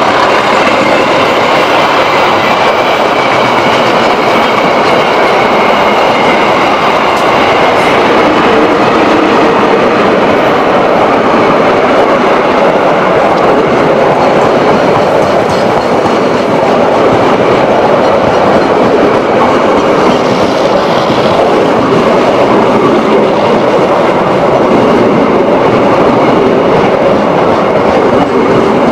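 Passenger train coaches rolling past close by, a loud steady rumble of steel wheels on the rails that does not let up.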